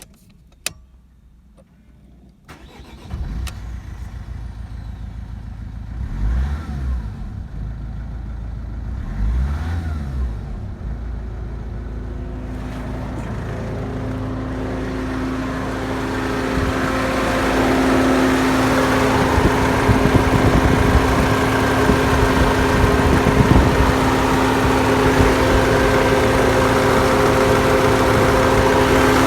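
Mercedes OM611 2.2 CDI four-cylinder turbo-diesel starting about two and a half seconds in, then briefly revved twice and settling into a steady idle. The running sound grows louder in the second half.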